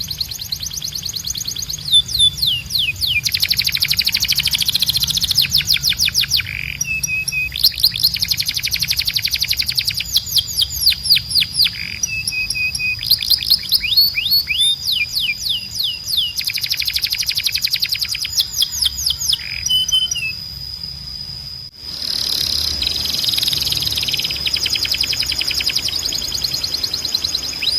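Canary singing: fast rolling trills of rapidly repeated high whistled sweeps, over a steady high held note. The song breaks off abruptly about three-quarters of the way through and picks up again.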